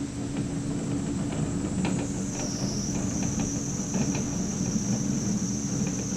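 Workshop background noise: a steady hum with a high-pitched whine from shop equipment, the whine dropping slightly in pitch about two seconds in, with scattered light clicks and knocks.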